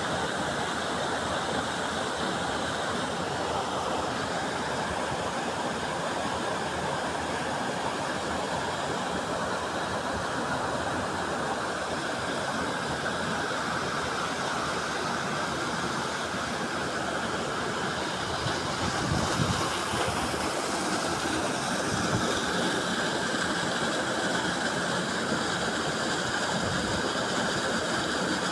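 Waterfall water rushing steadily, an even roar of falling water. A few brief low thuds come about two-thirds of the way through.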